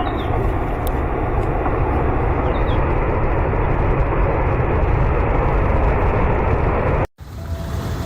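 A steady, loud rumbling noise with a few faint high chirps, which cuts off abruptly about seven seconds in.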